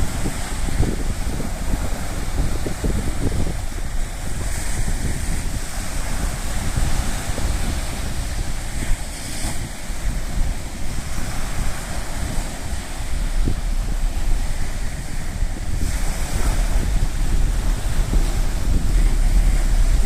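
Sea waves washing onto the shore, swelling a few times, under wind buffeting the microphone with a heavy low rumble.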